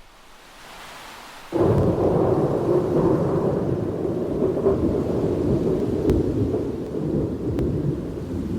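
Thunder: a faint building rumble, then a sudden loud crack about a second and a half in, followed by a long, continuing rumble.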